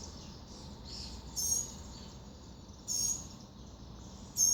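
A small bird giving short, high-pitched chirps, three in all, spaced about a second and a half apart, over a steady low background hum.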